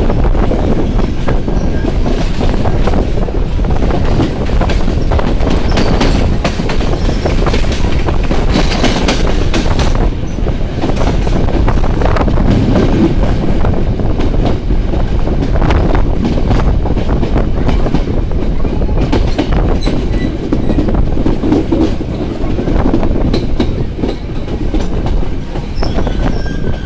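Passenger train running along the track, heard from a carriage: a steady loud rumble of wheels on rails with repeated clicks from the rail joints.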